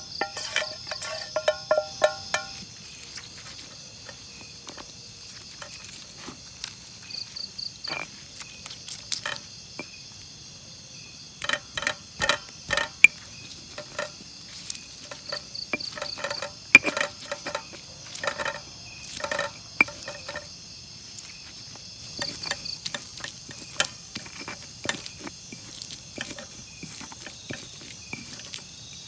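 Crickets chirping steadily, with many irregular sharp knocks and clicks that come in clusters, loudest around the middle.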